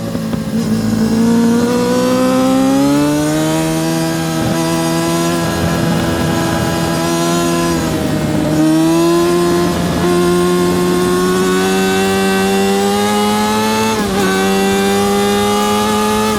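Yamaha R6 RJ03's 600cc inline-four engine at race pace, its pitch climbing under hard acceleration. It is broken by quick gear changes about 3, 8 and 14 seconds in.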